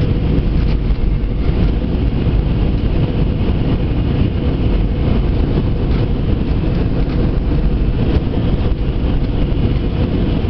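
Airbus A320 passenger-cabin noise in flight: a steady, loud low rumble of the engines and airflow.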